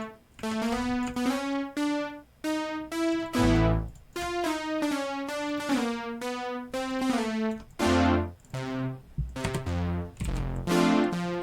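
Synthesizer with a keyboard-like tone playing a chord progression, held chords with some notes sliding into the next pitch. From about eight seconds in the chords turn short and decaying, with deep bass notes under them.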